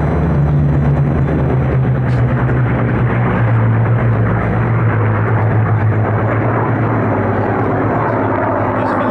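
North American AT-6/SNJ trainers' Pratt & Whitney R-1340 nine-cylinder radial engines running, a loud, steady low drone whose pitch drops slightly about three seconds in.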